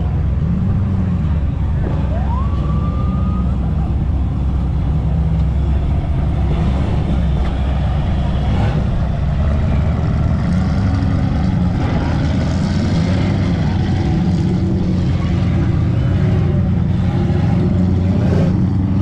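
Loud, steady running of vehicle engines, with a brief rising whistle about two seconds in.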